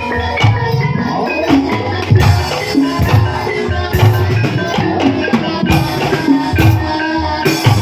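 Javanese gamelan music accompanying an ebeg horse-dance: ringing pitched metallophone notes over repeated hand-drum strokes, about two a second, some of them bending in pitch.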